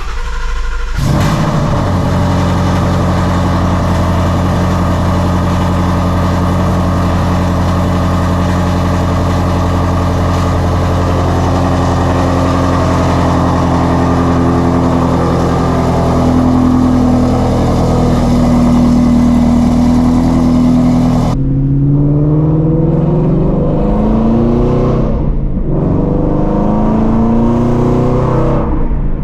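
A 2016 Shelby GT350's 5.2-litre flat-plane-crank V8, fitted with catless long-tube headers, idling steadily with its pitch creeping up slightly. About 21 seconds in, the sound cuts abruptly to the engine revving in rising sweeps, climbing and dropping back twice.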